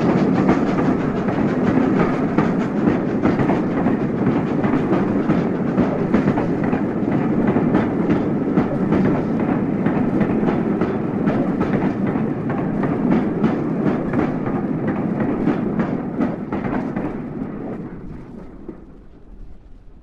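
A train rolling past with a clickety-clack of wheels over the rails; it dies away near the end.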